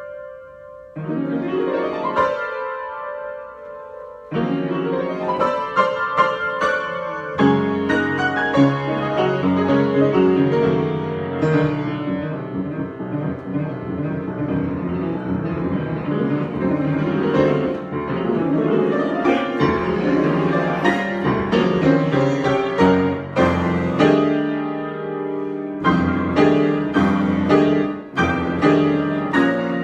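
Solo piano improvising: a few slow held chords at first, then a busier passage of many notes, then separately struck chords again near the end.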